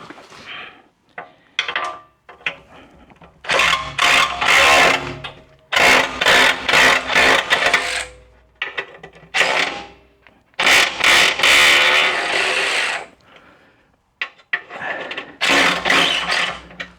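A tool backing out the skid plate's T50 Torx bolts, running in several bursts of one to two seconds with short pauses between them.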